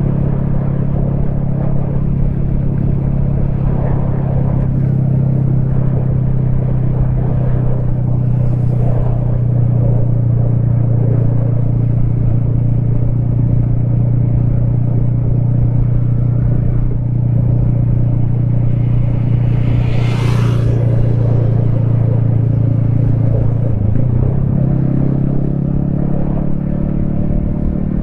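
Yamaha XSR155's 155 cc single-cylinder engine running at a steady cruise, heard from a helmet-mounted camera. There is a brief hiss about two-thirds of the way in. Near the end the engine note dips briefly and then settles at a slightly different pitch.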